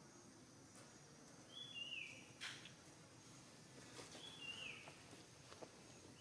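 A bird repeating a short whistled call that slides down in pitch, twice about two and a half seconds apart, with a few faint clicks and rustles.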